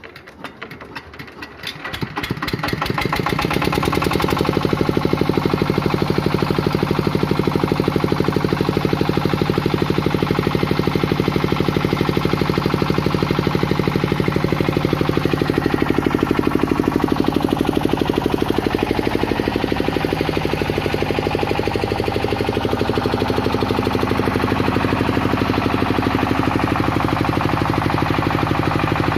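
Tianli 28 hp single-cylinder diesel engine driving a 20 kVA generator catches and starts. Its firing beats quicken and grow louder over the first few seconds, then it runs loudly and steadily.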